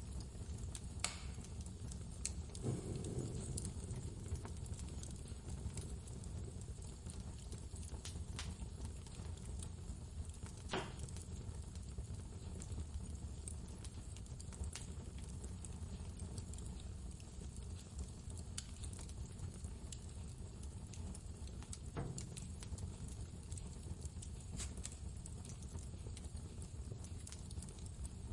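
Steady low rumble of blizzard wind with a wood fire crackling over it: scattered sharp pops and snaps, a few louder ones standing out.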